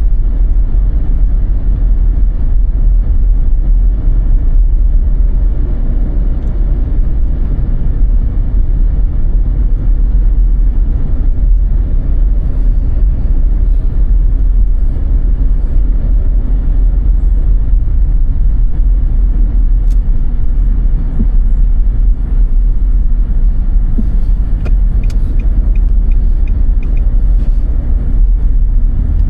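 A car driving through a snowstorm on snow-covered roads: the steady, loud low rumble of tyres and engine. A short run of light, evenly spaced ticks comes near the end.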